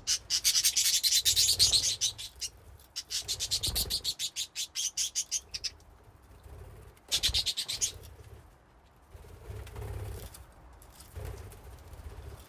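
Budgies chattering in three quick bursts of rapid, high, clicking notes at about ten a second. Fainter chatter and a few soft low thumps come later.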